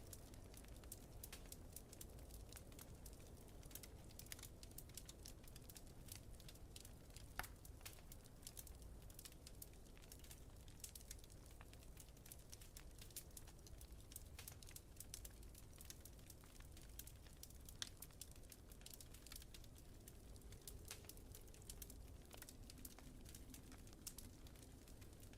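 Wood fire crackling softly with many small irregular clicks and pops, two of them sharper, over a low steady rumble.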